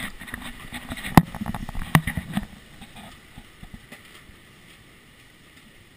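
Hurricane wind buffeting, muffled by the sealed waterproof housing of a GoPro HERO 2, with two sharp knocks in the first two seconds. It dies down to a faint, steady rush after about three seconds.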